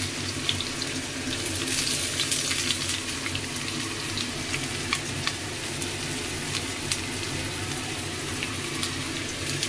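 Freshly added grated onion frying in hot oil with crushed garlic in a metal wok, a steady sizzling hiss with scattered crackles as the onion's moisture hits the oil.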